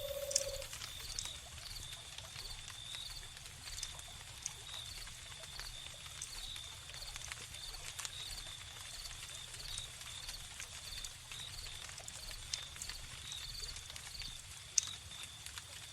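Crickets chirping in a steady high-pitched trill with evenly repeating pulses, over a wood fire crackling with scattered sharp pops. A held owl hoot ends about half a second in.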